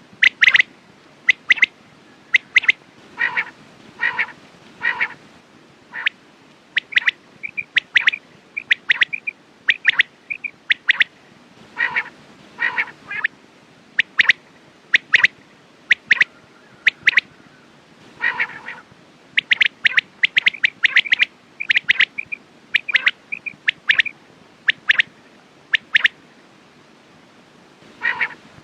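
Quail calling: short, sharp call notes repeated over and over in quick groups, with only brief pauses between them.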